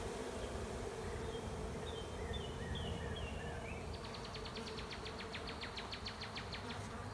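Steady hum of a honey bee swarm at a hive entrance, with many bees fanning their wings. A bird sings over it: a few short falling notes, then a rapid trill of about seven notes a second through the last three seconds.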